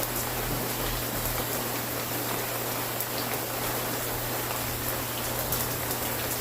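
Steady rain falling on a surface, with scattered drops ticking sharply through it and a steady low hum underneath.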